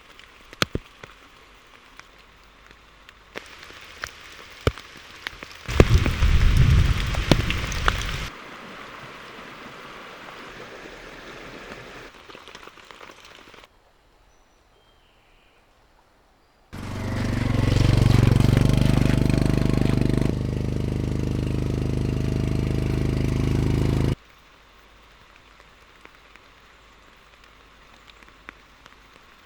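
Rain falling on surfaces with scattered drips, changing abruptly in loudness at several edits. For about seven seconds past the middle a steady, loud engine-like drone with a low hum takes over, then cuts off suddenly.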